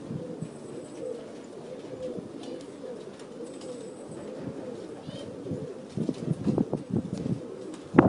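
Aviary birds cooing low and steadily, with a few faint higher chirps. From about six seconds in, a run of louder low knocks and rustles.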